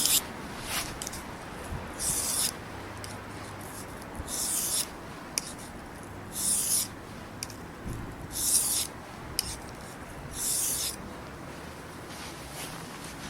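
Knife blade being stroked across a wet 800-grit Japanese water stone: six scraping strokes, each about half a second long, about two seconds apart.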